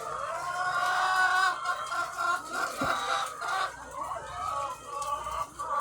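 A large flock of egg-laying hens clucking and calling all at once, many overlapping voices, swelling loudest about a second in.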